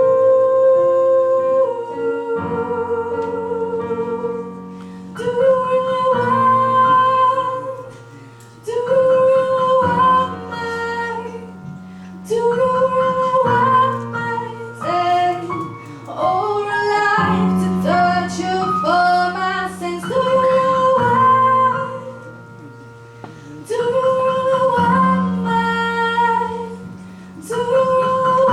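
Female voice singing a pop ballad in phrases of a few seconds each, accompanied by two violins and piano.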